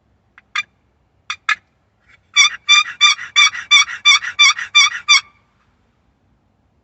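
A hunter's hand-operated turkey call making wild-turkey hen yelps: three single yelps, then a rhythmic series of about nine yelps at roughly three a second. It is the sound meant to lure a gobbler in.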